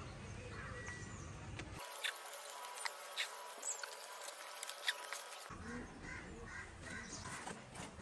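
Outdoor ambience with scattered light clicks and taps from work on the foam airframe in the first half, and a bird calling repeatedly, about three calls a second, in the second half.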